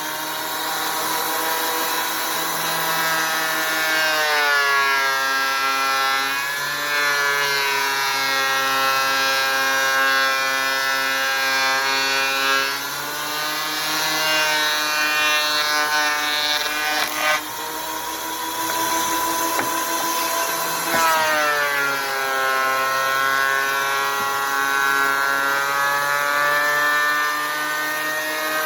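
Thickness planer running as rough-sawn boards are fed through it: a loud, steady motor whine whose pitch sags and then climbs back several times as the cutter head takes load.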